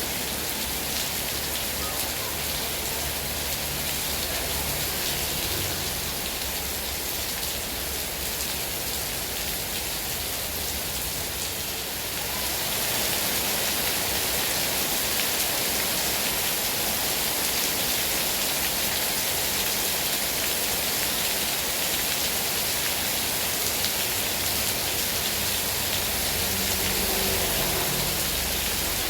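Heavy rain falling steadily, as an even hiss that grows heavier about twelve seconds in.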